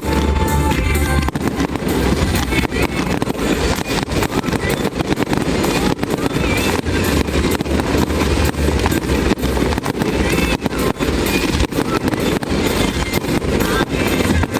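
Fireworks bursting in a rapid, dense run of bangs and crackles over loud music with a heavy bass.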